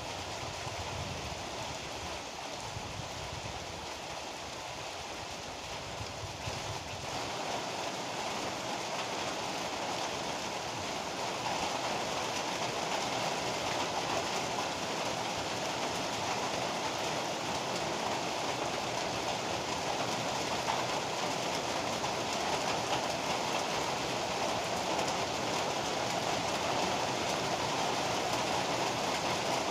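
Heavy rain falling steadily, with a low rumble in the first few seconds that dies away; the rain grows slightly louder about ten seconds in.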